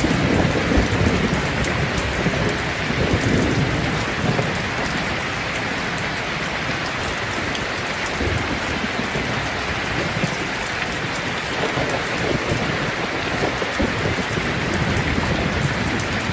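Steady rain falling, with low rumbles of thunder in the first few seconds.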